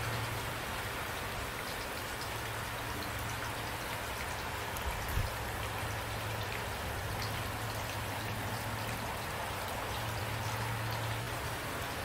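Steady rain, with individual drops ticking through an even hiss over a steady low hum. A single soft thump comes about five seconds in.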